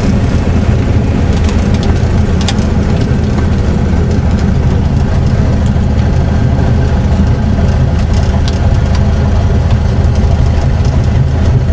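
Piper PA-28-161 Warrior's four-cylinder Lycoming engine and propeller running steadily, heard loud from inside the cabin, with a few light clicks.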